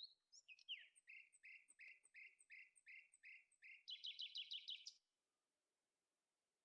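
A songbird singing faintly: a run of repeated downward-slurred notes, about three a second, then a faster, higher trill that stops about five seconds in.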